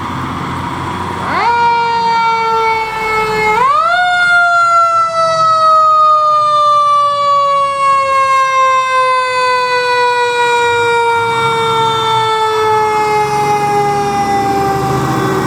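Fire truck's mechanical siren winding up in two quick rises, then coasting down in one long, slowly falling wail, over the truck's engine rumble.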